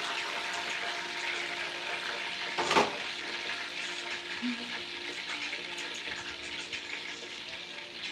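Chicken pieces frying in a skillet of hot oil on an electric stove, a steady sizzle with fine crackling and spitting. One sharp clatter about three seconds in, such as metal tongs set down on the stovetop.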